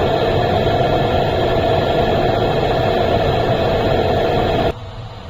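Eberspacher Airtronic diesel air heater running at high output: a loud, steady blend of fan and burner noise with a strong hum in it. Near the end the level drops abruptly to a much quieter running sound.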